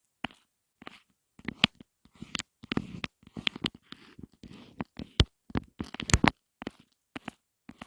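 Close-miked ASMR tapping: quick, irregular taps and clicks on objects, with a stretch of soft scratchy rustling in the middle.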